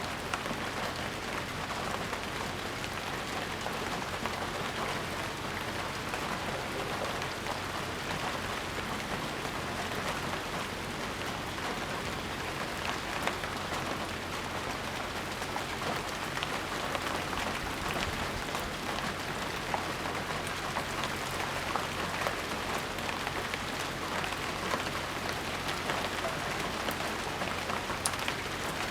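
Steady rain falling, with many small drop taps and an occasional sharper drip standing out.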